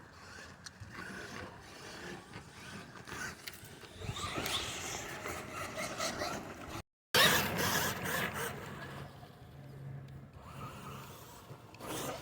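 Radio-controlled monster trucks driving and scraping over the ground and ramps: uneven rubbing, rattling mechanical noise, broken by a brief dropout about seven seconds in and louder just after it.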